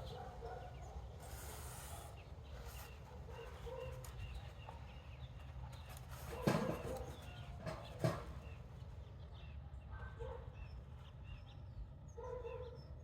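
A dog making short, faint whines and squeaks, over a steady low rumble, with two sharp knocks about halfway through, a second and a half apart.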